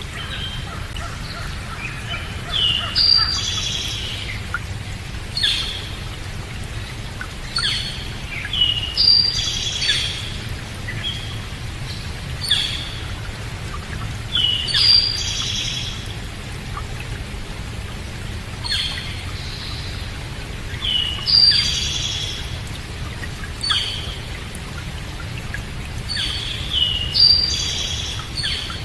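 Songbirds chirping and calling in short repeated phrases every couple of seconds, over a steady low background rumble.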